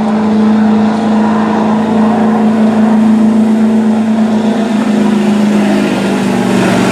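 Stock diesel 4WD pickup truck engine running hard at steady high revs under load as it drags the pulling sled down the track.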